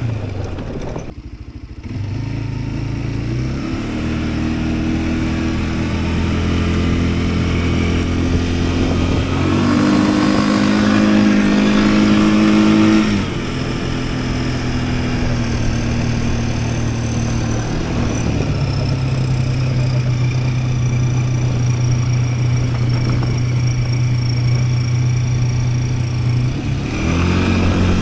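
Yuki Tract 200 ATV engine running while riding, its pitch stepping up and down several times as the throttle changes, with a brief easing off about a second in.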